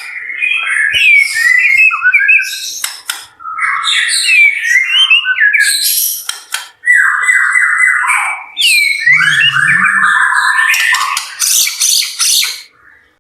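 White-rumped shama (murai batu) in full song: a loud, continuous run of varied whistled phrases and fast trills, broken by short pauses about three and seven seconds in.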